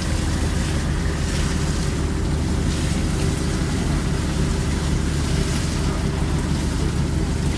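Fishing boat's engine running steadily, a deep even drone under a constant hiss of wind and water.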